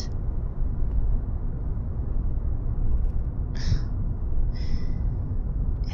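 Steady low rumble of car cabin road and engine noise. Two brief soft hisses come about halfway through.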